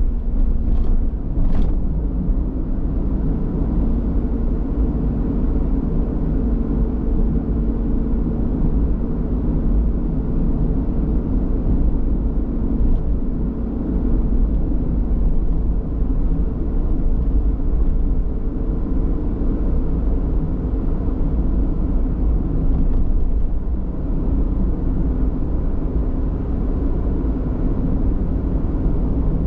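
Car on the move: steady engine and road rumble with a low, even hum, and two short clicks about a second in.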